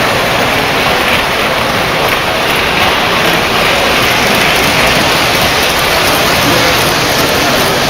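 Steady, loud din of a busy train-show hall, with toy trains running on their track loops amid indistinct crowd chatter.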